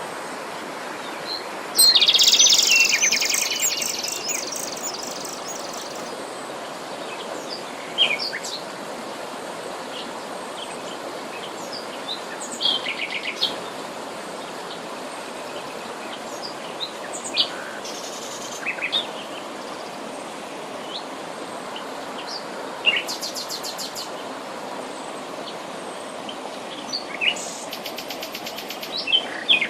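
Wild birds singing and calling over a steady hiss of background noise. The loudest moment is a rush of rapid, high song about two seconds in; after that come scattered short chirps and trills.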